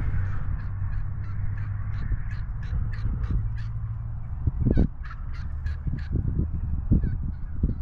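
A bird calling in a quick run of short, sharp notes, about three or four a second, thinning out about five seconds in, over a steady low rumble.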